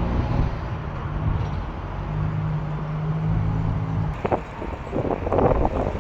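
A vehicle engine running with a low, steady hum, then a series of knocks and clanks starting about four seconds in.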